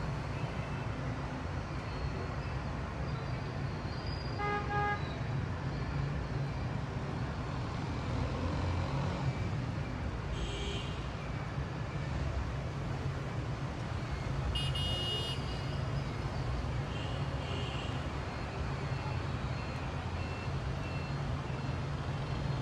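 Steady low rumble of city traffic heard from above the street. A car horn sounds briefly about five seconds in, and a short higher-pitched tone follows around fifteen seconds in.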